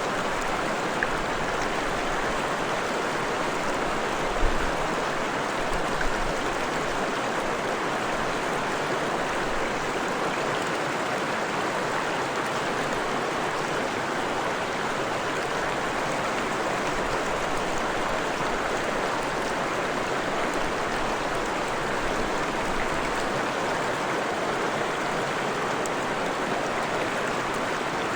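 Forest stream flowing over rocks: a steady rush of running water, with a few soft low knocks a few seconds in.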